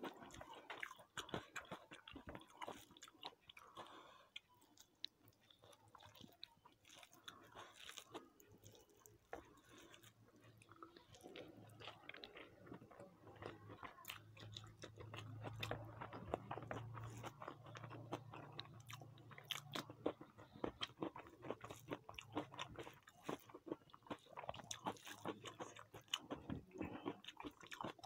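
A person chewing and eating fried rice and chicken close to the microphone: a dense run of soft, irregular wet mouth clicks and smacks.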